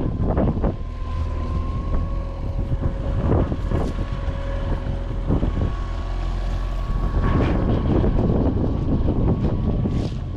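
Strong wind buffeting the microphone on an open fishing boat, a steady low rumble with gusts, over a faint steady whine.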